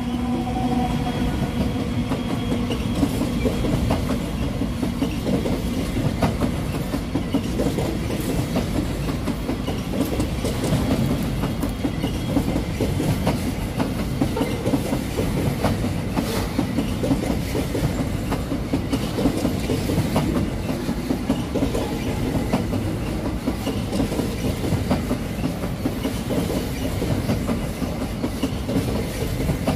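Freight train's covered wagons rolling past, steel wheels clattering over the rail joints in a steady clickety-clack with scattered sharp clicks. The last locomotive's engine hum fades out in the first second.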